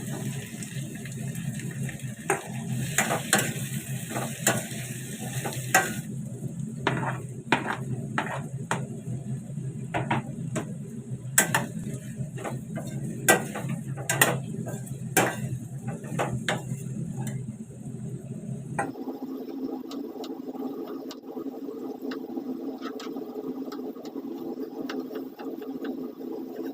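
Kitchen cooking sounds: a utensil stirring, scraping and clinking against a pan, with repeated sharp knocks over a steady low hum. About two-thirds of the way through this cuts off abruptly and gives way to a different steady hum with faint clicks.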